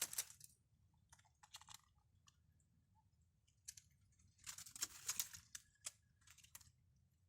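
Faint, scattered crackling and crunching noises, a few isolated ones early on and a denser cluster of crunches a little past the middle.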